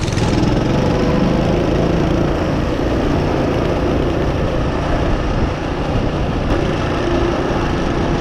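Small gas engine running steadily and loud, close to the microphone.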